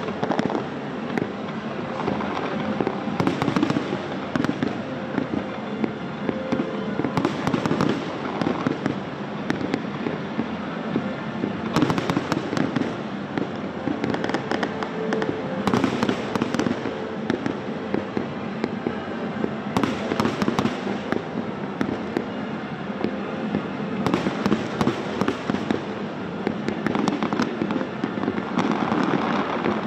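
Fireworks display: a continuous barrage of aerial shells bursting, with many sharp reports and crackles packed close together.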